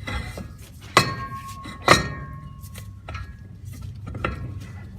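Metal parts knocking and clinking as a clutch is worked onto a splined shaft: two sharp clinks that ring briefly, about a second in and just before two seconds, with lighter clicks around them.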